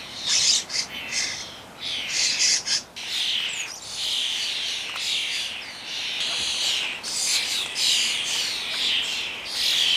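Common starlings calling in a flock, a raucous run of harsh, raspy calls repeating in quick bursts with short gaps.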